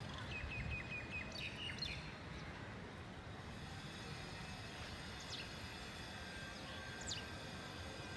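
Wild birds calling over a steady low outdoor rumble. A rapid run of short chirps comes in the first second or so, then a few more chirps, then two quick falling whistles about five and seven seconds in.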